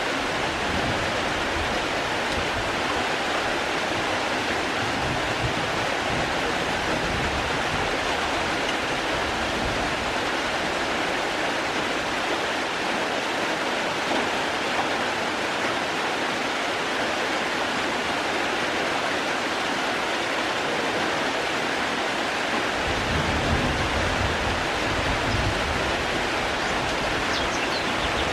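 Steady rain, an even, dense hiss that holds at one level throughout. A low rumble comes and goes beneath it and grows stronger in the last few seconds.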